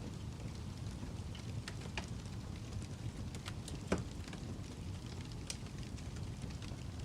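Wood fire crackling in a fireplace: scattered pops and snaps over a steady low rumble, with one louder pop about four seconds in.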